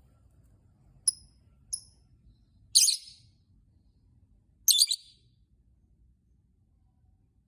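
Lovebird calling: two short high chirps about a second in, then two louder, harsh shrieks about three and five seconds in.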